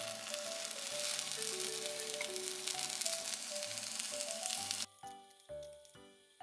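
Egg mixture with chopped green onion and red pepper sizzling in a rectangular tamagoyaki pan, a steady frying hiss that cuts off suddenly about five seconds in.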